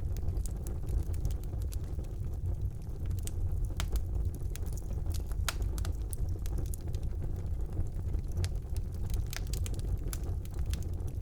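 Wood fire burning in a fireplace: a steady low roar of flames with irregular sharp crackles and pops throughout.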